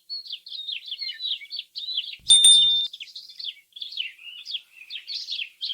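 Small songbirds chirping and twittering in quick overlapping high phrases, with a brief, loud ringing tone about two seconds in.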